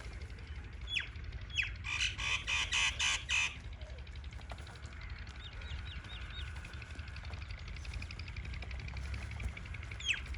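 Birds calling at a feeding spot: a couple of short falling calls, then a rapid run of about seven harsh squawking calls about two seconds in, and a few faint chirps later.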